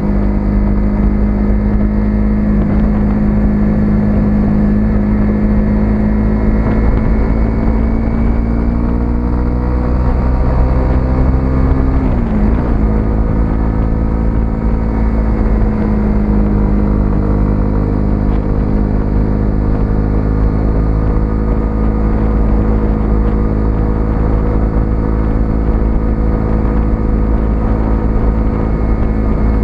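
A 125cc single-cylinder motorcycle engine running steadily under way. Its pitch creeps up, dips sharply about twelve seconds in as the throttle is eased or a gear is changed, then holds steady at a slightly lower pitch.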